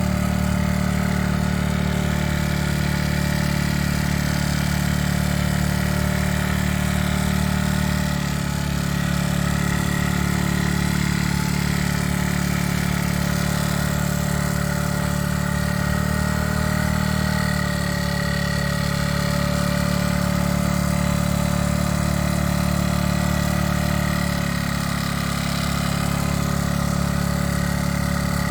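Motorbike engine idling steadily, its pitch shifting slightly a few times, about 8, 17 and 25 seconds in.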